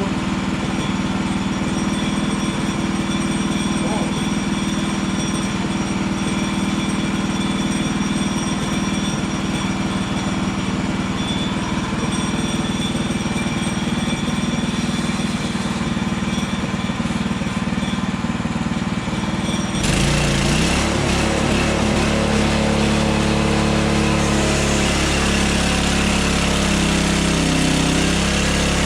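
Gas engine of a Hudson Hunter portable bandsaw sawmill running steadily. About twenty seconds in, the sound suddenly gets louder and rougher, with deeper rumble and a wavering pitch.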